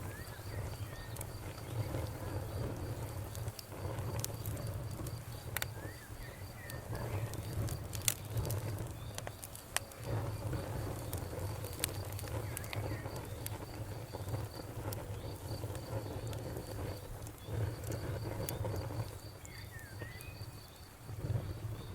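Wood fire crackling, with scattered sharp pops and one louder snap about eight seconds in, over a low rumble of the flames. A cricket chirps in an even, steady rhythm behind it.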